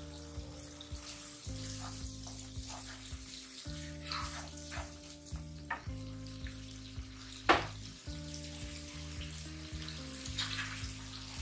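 Chopped onions and ginger-garlic paste sizzling in oil in a non-stick kadhai, stirred with a wooden slotted spatula that scrapes and taps against the pan. There is one sharp knock about halfway through. Background music with steady low notes plays underneath.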